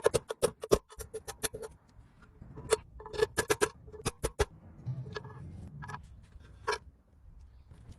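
Sharp metallic clicks and taps, irregular, from metal tools and parts being handled. There is a quick run of clicks in the first second and another cluster about three seconds in, then scattered single clicks.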